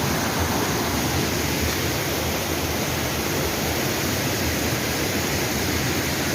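Steady rushing water: a loud, even wash of noise.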